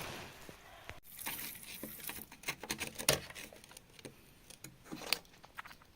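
Irregular scraping and clicking of gritty material being handled, with a sudden break about a second in.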